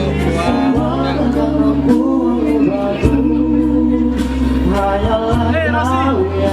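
Indonesian pop love ballad: a solo voice sings a slow melody over sustained bass and chord accompaniment, with a wavering held note near the end.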